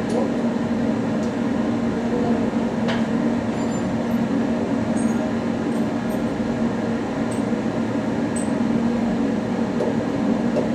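A workshop machine's electric motor running steadily, a constant low hum with a few faint ticks.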